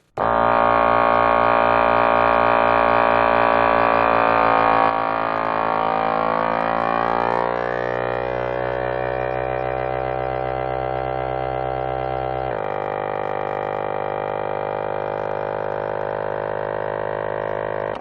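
A machine running with a loud, steady drone of many tones; its pitch shifts about five seconds in, glides for a few seconds, and drops a step about twelve seconds in.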